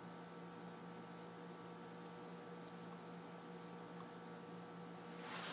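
Quiet room tone: a steady electrical hum with a faint hiss. A soft rustle rises near the end.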